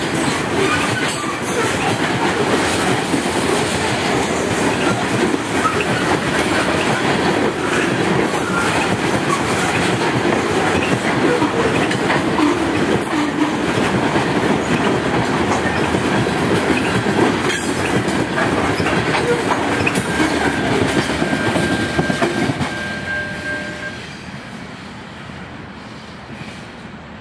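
Freight train coal cars rolling past close by, with steady wheel-on-rail noise. About 22 seconds in, the end of the train goes by and the sound falls away as it recedes.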